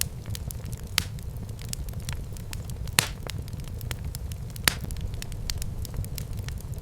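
Wood fire burning in a fireplace: a steady low rumble of flame with irregular sharp crackles and pops, three louder pops about one, three and nearly five seconds in.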